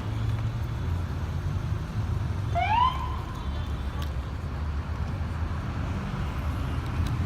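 Police car siren giving one short rising whoop about three seconds in, over a steady low engine rumble.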